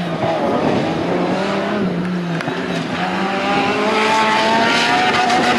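Off-road race vehicle's engine running hard under load, its pitch holding fairly steady and rising slightly after a few seconds, over rough tyre and terrain noise.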